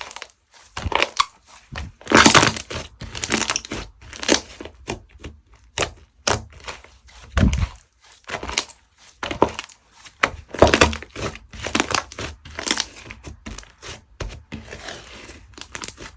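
Slime being squeezed, pressed and stretched by hand, crackling and popping in short irregular bursts, about one or two a second.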